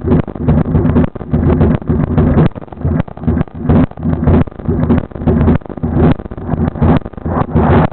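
Kawasaki Vulcan chopper's engine idling, its sound surging unevenly about twice a second.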